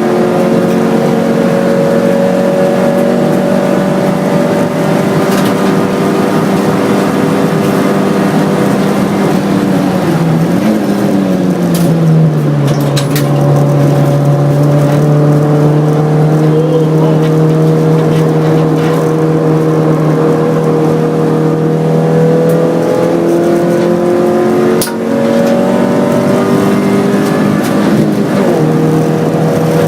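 Hyundai Excel race car's 1.5-litre twin-cam four-cylinder engine running hard under load, noisy and rough. About eleven seconds in its note drops to a lower steady pitch. Near twenty-five seconds there is a brief dip in loudness, after which the pitch climbs again.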